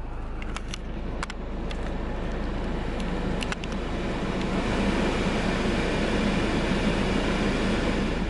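Car engine and road noise, a steady rush that swells over the first few seconds and then holds, with a few sharp clicks early on.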